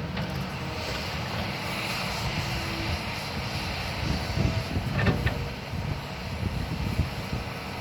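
Excavator engine running steadily while it works a dirt pile, with a few clanks and knocks and a louder surge about four to five seconds in.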